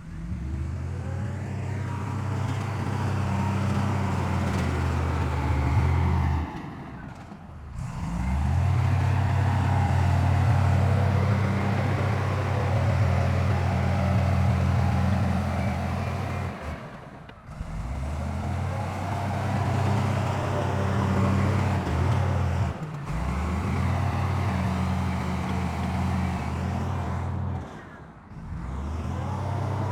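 Heavy diesel engine of an earthmoving machine running steadily at a constant low pitch, with a broad mechanical clatter above it. The sound drops out abruptly about four times, near 7, 17, 23 and 28 seconds in, then resumes.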